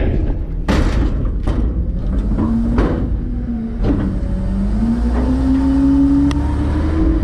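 Front-load garbage truck's engine and hydraulics running, with a whine that rises over the last three seconds as the engine speeds up. Several sharp metal clanks come in the first four seconds.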